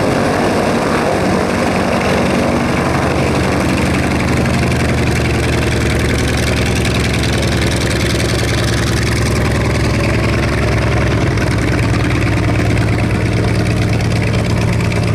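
A loud engine idling steadily, with a fast, even low throb.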